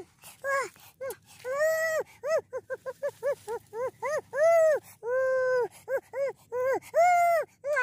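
A voice making repeated short pitched calls or whines, each rising and falling in pitch. A quick run of about four a second in the middle lies between longer drawn-out calls.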